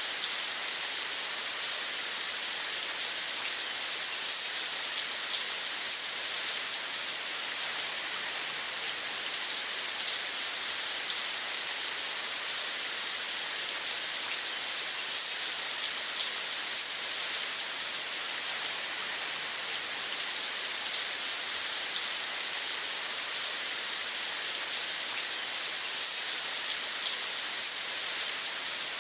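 Steady rain: an even hiss of many fine drops falling, without let-up or change.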